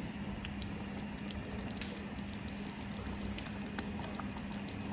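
Duck meat stew simmering in a pot, its thick sauce bubbling with many small irregular pops over a steady low hum.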